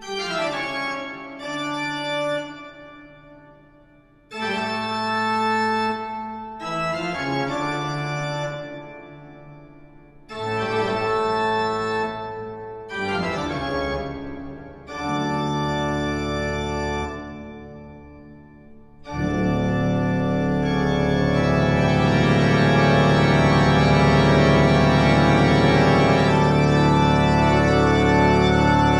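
Organ music: a series of held chords that each swell and die away, with short gaps between phrases, then about two thirds of the way through a full, louder chord that is held.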